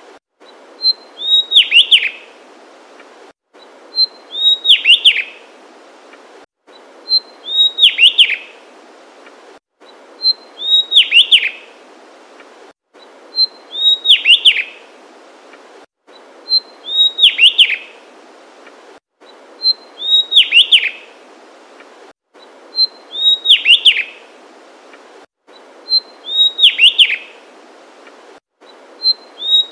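Javanese tesia singing its short song over and over, about every three seconds. Each song is a brief high note followed by a quick tumbling run of notes falling in pitch, over a faint steady hiss.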